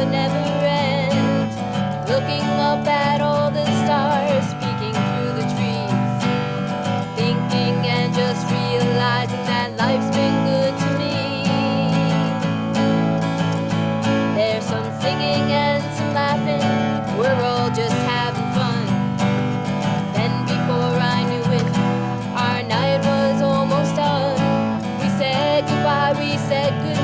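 Acoustic guitar strumming steady chords under a wavering melody line, in a country-style song.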